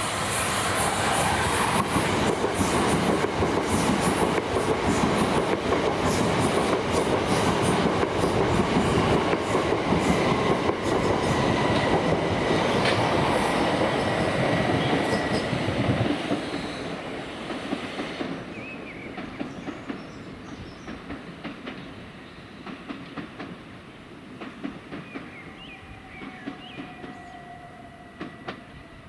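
Passenger train passing close by, its wheels clicking over the rail joints, loud for about sixteen seconds and then dying away as it moves off.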